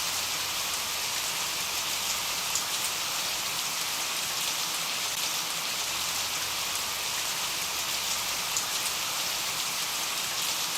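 Steady rain: a dense, even hiss of falling drops, with a few sharper individual drop hits standing out.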